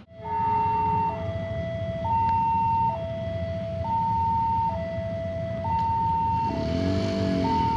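Railway level-crossing warning alarm sounding: an electronic two-tone signal that alternates between a higher and a lower note, each held just under a second, over a low background rumble. It is warning that a train is approaching.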